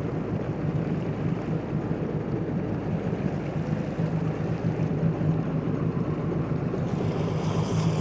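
A vehicle engine running steadily, a constant low rumble with no change in pitch.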